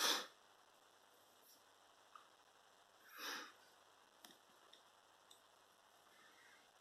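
Two short, noisy breaths from a person close to the microphone, one at the start and one about three seconds in, with a few faint clicks over quiet room tone.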